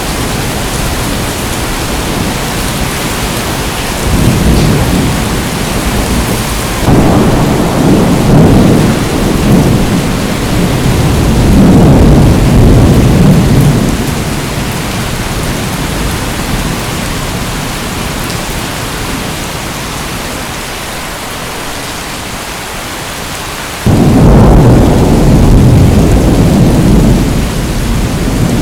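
Steady heavy rain with rolling thunder. Low rumbles of thunder swell in suddenly about four seconds in, again about seven seconds in lasting several seconds, and once more near the end.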